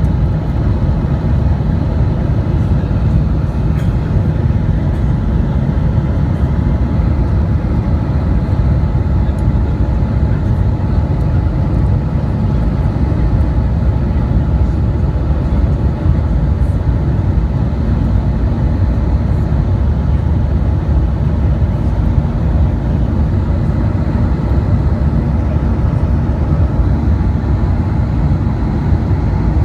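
Steady cabin noise inside an Airbus A320 in flight: a loud, even low rumble of engines and airflow that does not change.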